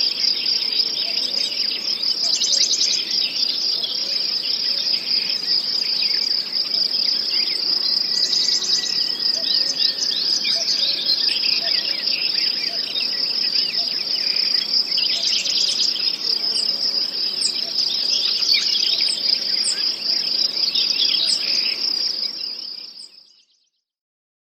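Nature soundscape: a steady, high chorus of insects, cricket-like, with birds chirping over it. It fades out near the end.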